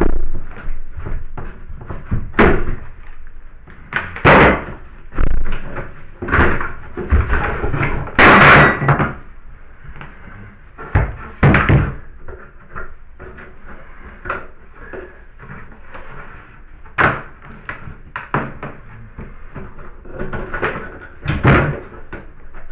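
Irregular knocks and clunks of tools and parts being handled during hand work, with a longer, louder scraping clatter about eight seconds in.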